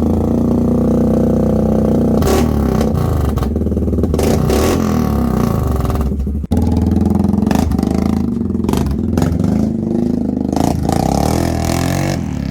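Suzuki King Quad ATV's single-cylinder engine running loud through a universal aftermarket exhaust: idling, then revved up and back down several times, with a brief break about six and a half seconds in.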